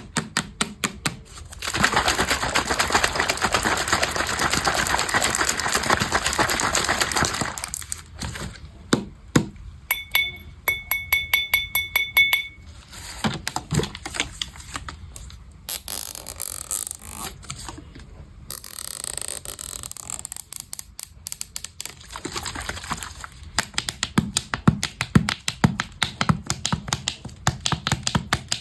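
A run of close-up ASMR trigger sounds: rapid tapping and clicking, a few seconds of dense scratching or rustling, and a short string of high ringing pings.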